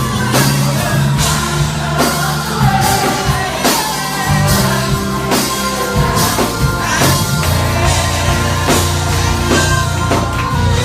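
Gospel choir singing with a live band, with a steady drum beat and bass under the voices.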